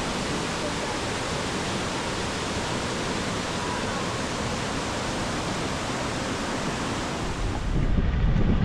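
Waterfall: a steady, even rush of falling water. Near the end it gives way to a louder low rumble.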